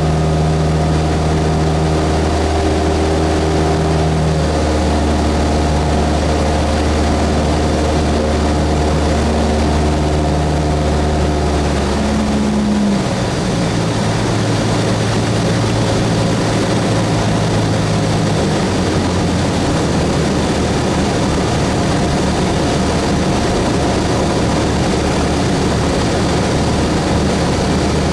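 Cessna 172S's four-cylinder Lycoming engine and propeller running steadily. The engine note changes about halfway through, as a power setting is changed, then holds steady again.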